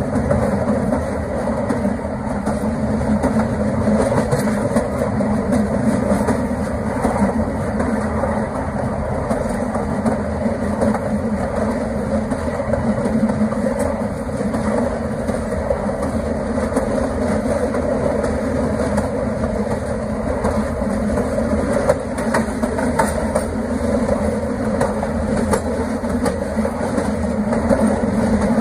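Passenger train running along the line, heard from the rear of the last coach: a steady rumble of wheels on rail with faint clicks and rattles throughout.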